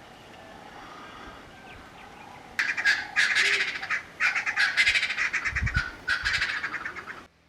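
Bird calling in three loud bouts of rapid rattling cackles, starting about two and a half seconds in and cutting off suddenly near the end.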